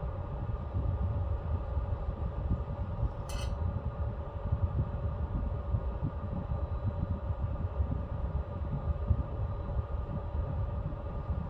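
Pellet stove running: a steady low rumble of the fire and blowers under a constant fan hum, with a single short click about three seconds in.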